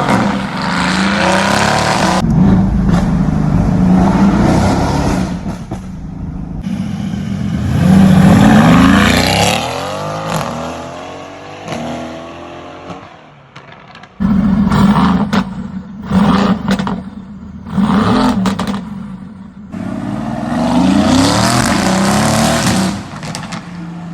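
Cars with loud modified exhausts revving and accelerating hard, in a run of short clips; about eight seconds in, one climbs in pitch, then drops away as it passes.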